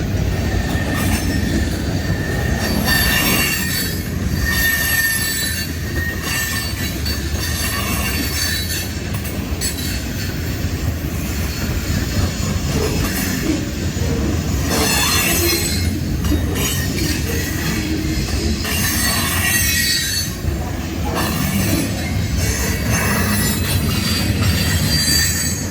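Freight train cars rolling past at close range: a steady rumble of wheels on rail with intermittent high metallic wheel squeal.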